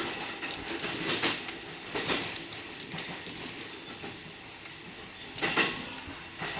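Electric commuter train running on the line, heard from inside the car: its wheels clack over rail joints in short groups, about one and two seconds in and loudest around five and a half seconds, over steady running noise.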